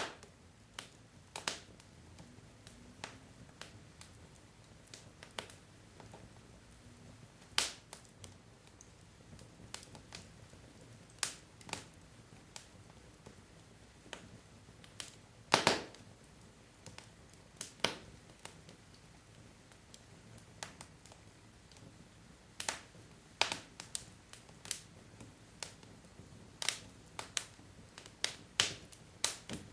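Wood fire in a fireplace crackling: irregular sharp pops and snaps from the burning logs over a faint low hiss of the flames, with a few louder pops, the loudest about halfway through.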